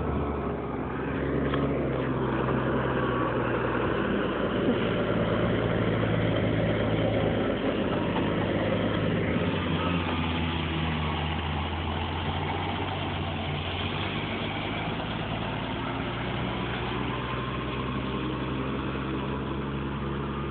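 A truck's engine idling steadily, under a constant hiss.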